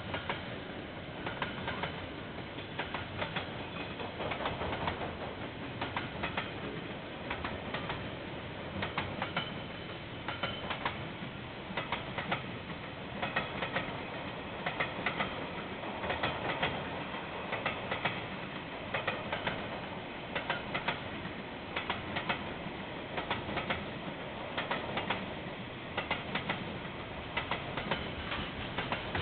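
Container wagons of a freight train rolling past, a steady rumble with continual irregular clicking and clacking of the wheels on the track, heard through a security camera's microphone.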